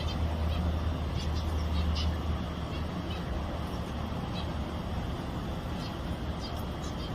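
Small aviary birds giving short, high chirps now and then, with clusters about a second in and again near the end. Under them runs a steady low rumble that is loudest in the first couple of seconds.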